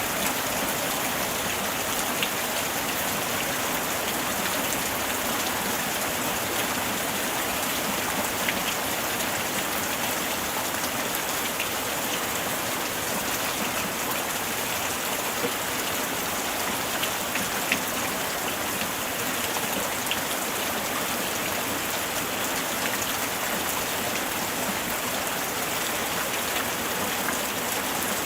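Steady light rain falling, an even hiss with scattered small drop ticks.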